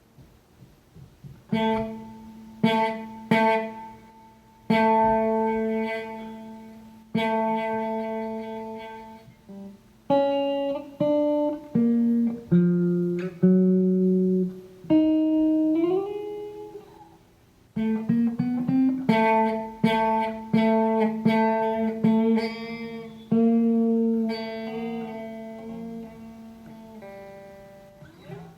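A lone guitar being played, plucked notes and chords ringing out and dying away, with a string bend rising in pitch about halfway through.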